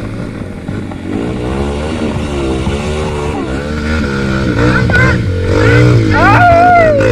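Trail motorcycle engine running, its pitch wavering up and down as the throttle is worked, with a person's falling shout about six seconds in.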